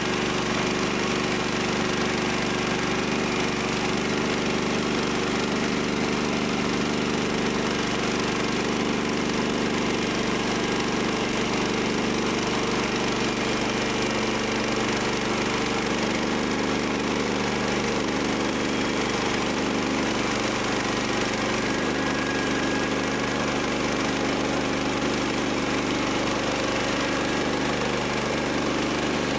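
Gas engine of a portable bandsaw sawmill running steadily at an even speed.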